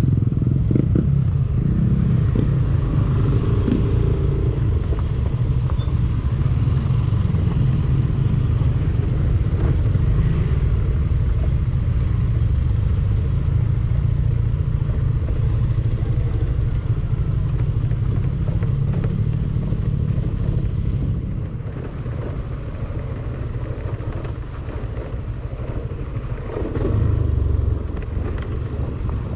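Yamaha Aerox 155 scooter being ridden, its single-cylinder engine running under a heavy low rumble. The sound eases off about two-thirds of the way through, then swells briefly near the end.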